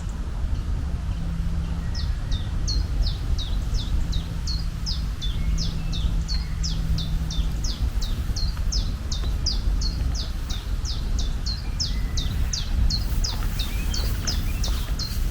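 A bird repeating a short, high, falling call about three times a second, starting about two seconds in, over a steady low rumble.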